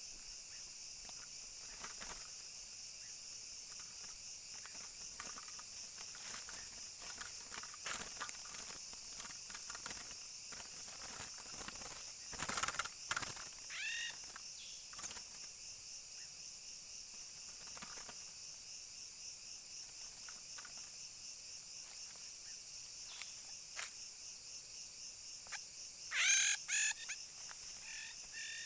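Insects trill steadily and high throughout. A bird gives short, falling calls about halfway through, then a louder burst of calls near the end.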